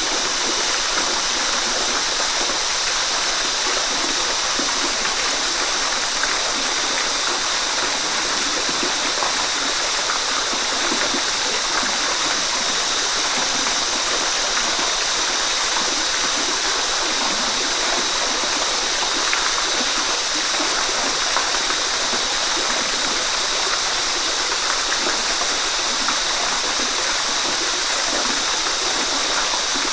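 Waterfall: a steady, unbroken rush of falling water, with a faint steady high-pitched tone running over it.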